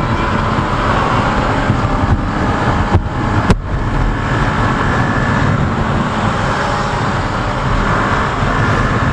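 Riding at highway speed on a Kawasaki Ninja 650: steady wind rush on the helmet microphone over the drone of the motorcycle's parallel-twin engine. Two brief sharp clicks come about three and three and a half seconds in.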